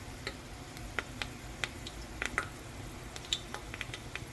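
Hot cooking oil sizzling in a pot, with scattered, irregular sharp pops and crackles.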